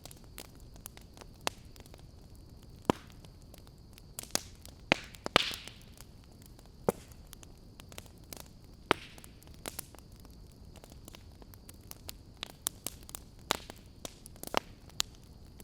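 Wood fire crackling in a fireplace: irregular sharp pops and snaps over a low steady hiss, with a cluster of louder pops about five seconds in.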